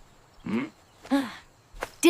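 Two short voiced sounds, each a brief call that falls slightly in pitch, about half a second apart, then a faint click near the end.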